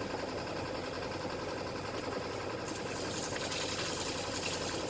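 An engine running steadily with a fast, even pulse. About three seconds in, a hissing rush like water joins it.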